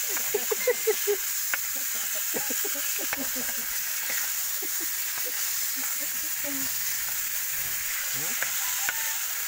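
Chicken liver sizzling steadily in a hot pan, with a few short pitched sounds in the first second.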